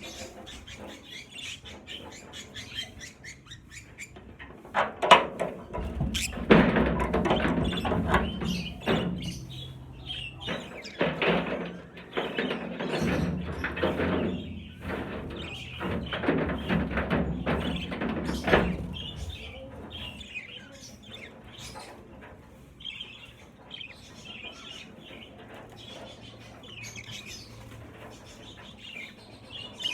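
A flock of budgerigars chirping, with a louder stretch of fluttering wings and rustling in the middle.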